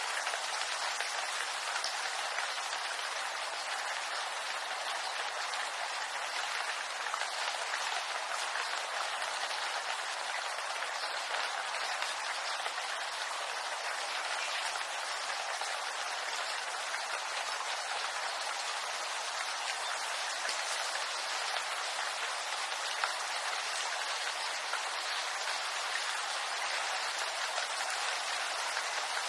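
Steady rain falling on bamboo leaves: a dense, even hiss with fine scattered drop ticks and no breaks.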